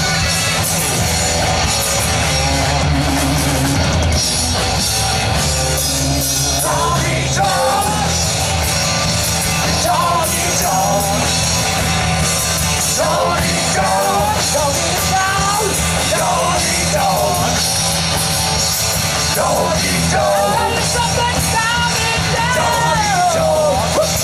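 Live rock band playing with guitar, bass and drums; a singer comes in about seven seconds in and sings, partly yelled, over the band.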